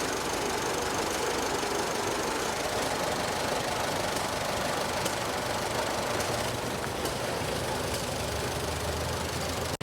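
Antique engine running steadily, with a low hum joining in about six seconds in.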